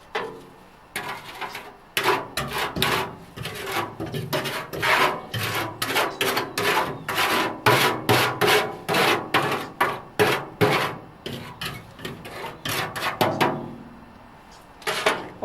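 Hand scrubbing strokes, quick and irregular at about two or three a second, starting about a second in and stopping a couple of seconds before the end.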